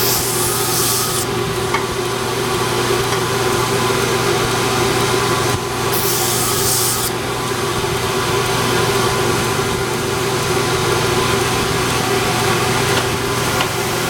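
A power sander running steadily, grinding down micarta knife-handle material. Two short bursts of hiss, about a second each, come at the start and about six seconds in, as the piece is pressed against the abrasive.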